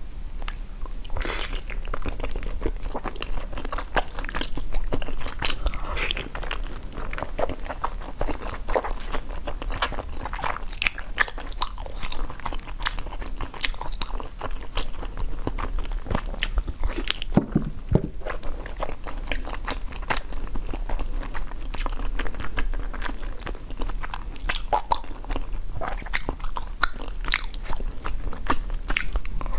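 Close-miked biting and chewing of frozen pink jelly: a continuous run of crisp crunches and crackles as pieces are bitten off and chewed.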